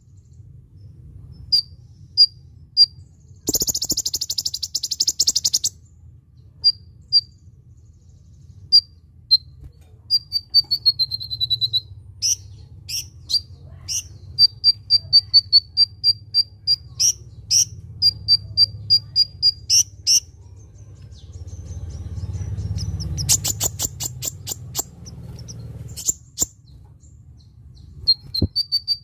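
Song of a kolibri ninja sunbird: high, thin chirps and short whistled notes, some sliding down in pitch, with quick runs of repeated notes. Harsh buzzing rattles come a few seconds in and again after about twenty-three seconds.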